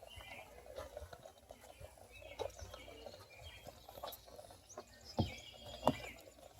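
Faint songbird singing in short repeated chirping phrases, with a low outdoor hum beneath and two sharp clicks about five and six seconds in.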